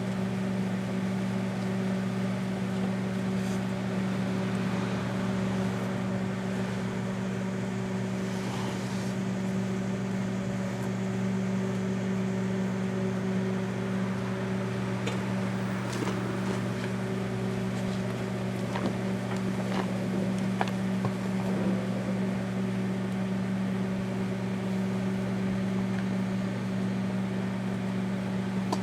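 Daewoo microwave oven running, a steady hum, while it heats a bar of laundry soap. A few faint clicks come near the middle.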